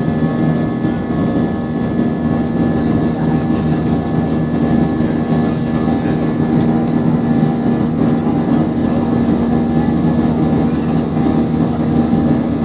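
Steady engine and airflow noise of an airliner in flight, heard from inside the passenger cabin, with a constant low hum and a few steady tones over it.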